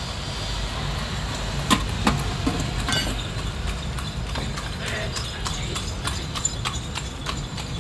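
Irregular clinks and taps of hand tools on metal during alternator repair work, with a few louder knocks about two and three seconds in, over a steady low rumble.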